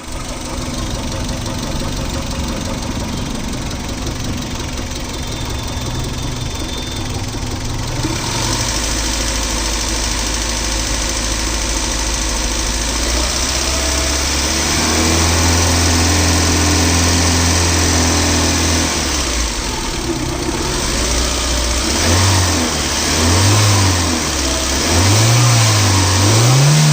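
Maruti Suzuki Baleno VXi petrol engine running: idling at first, revved up and held at higher revs for a few seconds, then blipped up and down about five times near the end.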